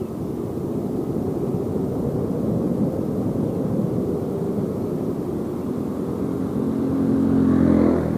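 Steady wind and road rumble of a motorcycle being ridden. Near the end an engine note rises and grows louder, peaking just before it falls away.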